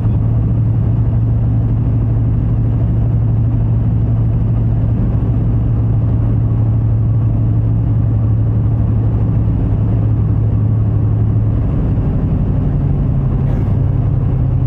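Route bus engine running while the bus drives, heard from inside the bus as a steady low drone. About twelve seconds in, the engine note shifts a little higher.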